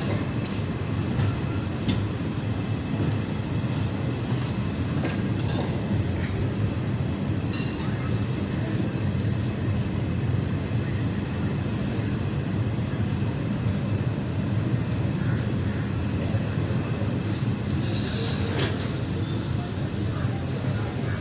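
Passenger train running, heard from inside the carriage: a steady low rumble of wheels on rail with scattered faint clicks. A short hiss comes about three-quarters of the way through.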